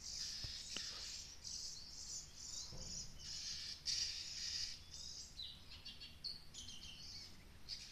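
Birds singing in a run of high, varied chirping and whistled phrases, several notes gliding, over a light hum of insects.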